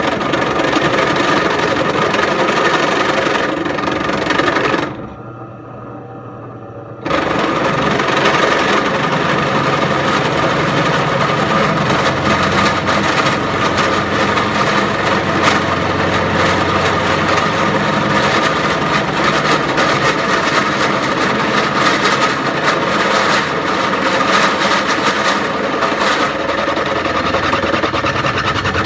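Drill press running with a 1/2-inch bit cutting into a spark plug non-fouler, a steady motor hum with a grinding cut. It stops about five seconds in and starts again about two seconds later.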